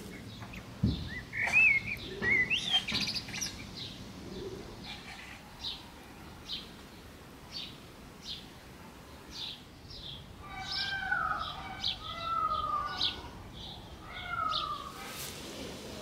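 Songbirds chirping and singing: quick bending chirps in the first few seconds, then short high notes about once a second, then several falling whistled phrases over the second half.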